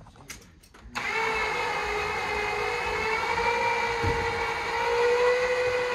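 Electric winch motor starting about a second in and running with a steady whine under load, its pitch creeping up slightly, as it pulls a truck onto a trailer.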